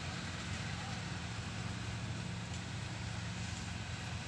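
A steady low motor hum under a constant hiss, with no change in pitch or level.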